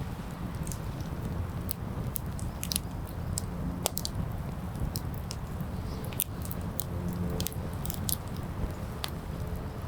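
Wood campfire crackling, with many short sharp pops scattered throughout over a steady low rumble.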